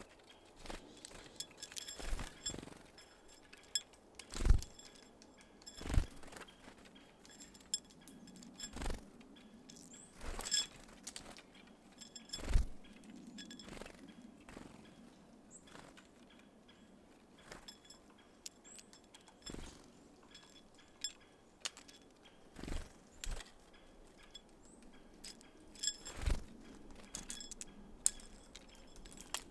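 Small birds at a seed feeder, making irregular knocks and clinks every second or two as they land and peck at sunflower seeds.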